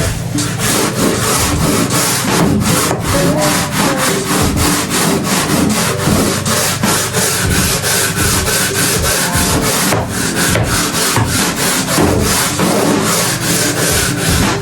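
Scrubbing brush being worked hard back and forth over a floor, about four rasping strokes a second.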